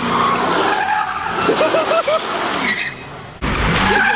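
Car doing a burnout: the engine is revving hard and the tyres are spinning and squealing. Near the end the sound drops briefly, then comes back abruptly and loud.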